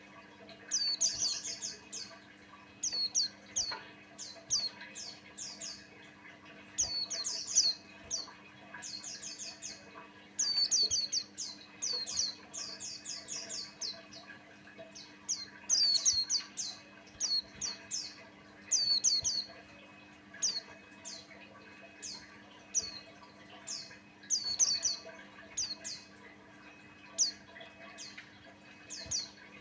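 A white-eye of the kind kept as pleci Buxtoni singing in short bursts of fast, high, chirping notes, repeated every second or two.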